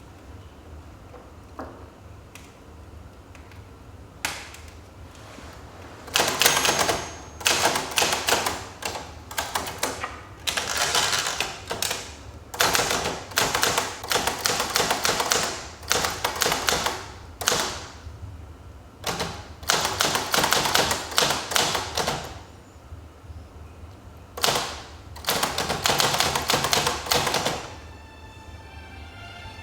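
Manual typewriter being typed on. A few single key strikes come first, then about six seconds in, quick runs of keystrokes in bursts with short pauses between them.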